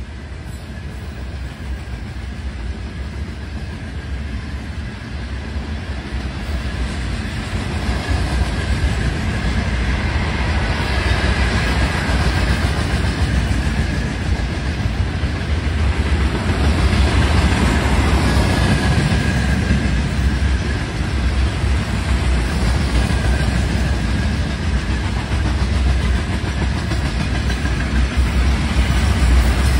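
A train rolling past on the track: a heavy rumble of rail cars and wheels that builds over the first ten seconds or so, then holds loud and steady.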